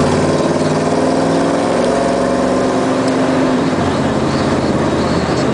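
A 1966 Chevelle's new 350 V8 running at highway speed, heard from inside the car: a loud engine drone whose pitch climbs slowly as it accelerates. About three and a half seconds in, the steady tone breaks up into a rougher rumble.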